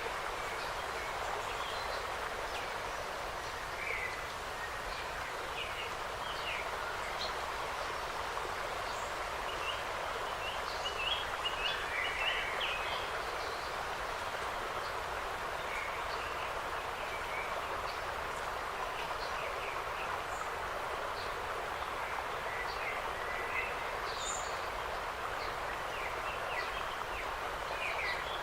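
Forest ambience: small birds chirping and calling in short notes over a steady rushing background, with a busier run of calls about eleven seconds in.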